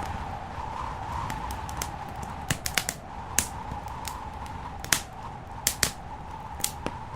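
Wood fire in a fireplace crackling, with sharp, irregular pops and snaps over a steady rushing noise.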